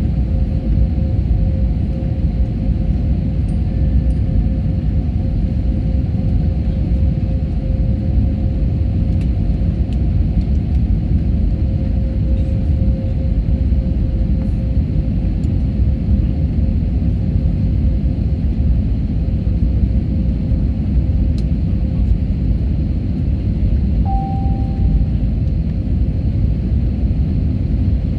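Airliner on its landing approach: a steady low rumble of engines and airflow, with a constant hum running through it.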